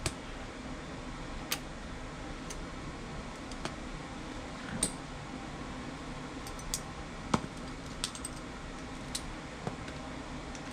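Scattered small clicks and taps of metal parts and tools being handled while fitting a furnace's replacement inducer draft motor, the sharpest about seven seconds in, over a steady background hum.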